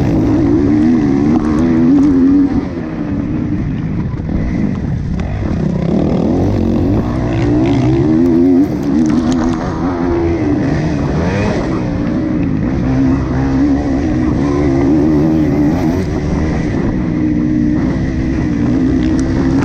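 Motocross motorcycle engine running hard under racing load, its pitch rising and falling continually as the throttle is opened and closed.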